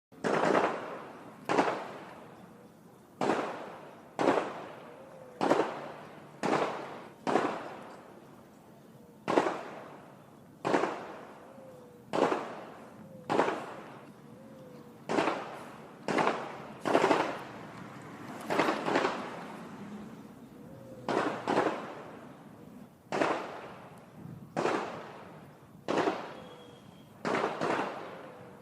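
Gunshots at a shooting range heard from far off: single sharp reports at irregular intervals of a second or two, some in quick pairs, each trailing off in a long echo.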